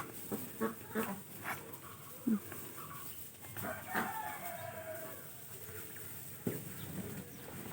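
Domestic ducks feeding, with scattered pecking clicks and short calls, and a longer, falling call about four seconds in.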